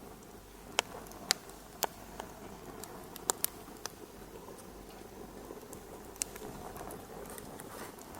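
Wood fire crackling: a steady low hiss broken by sharp pops, several in the first few seconds and another about six seconds in.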